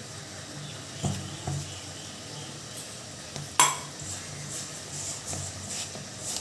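Kitchen utensils and dishes clattering: a few knocks, then one loud ringing metal clink about three and a half seconds in, followed by lighter clicks.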